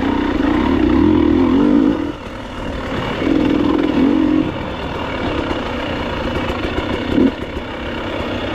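Enduro motorcycle engine pulling hard for about two seconds, easing off, then opening up again briefly before settling lower; a short sharp knock about seven seconds in.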